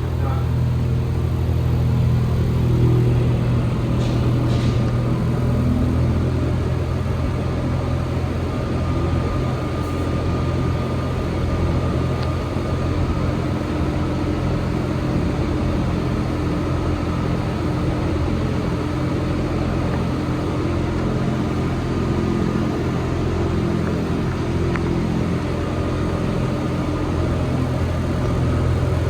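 Alstom NS-74 rubber-tyred metro train running between stations, heard from inside the car. A steady low rumble with faint whining tones held through.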